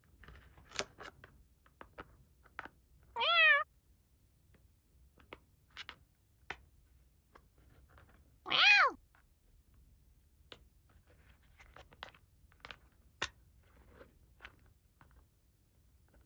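A cat meows twice: a short wavering meow about three seconds in, and a louder meow rising and falling near the middle. Light clicks and taps of small plastic toy pieces being handled come and go around the meows.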